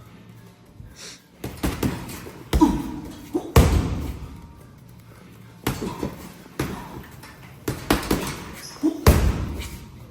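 Kicks and strikes landing on a Muay Thai pad or bag: a series of heavy thuds at uneven gaps of about a second, several with a short grunt.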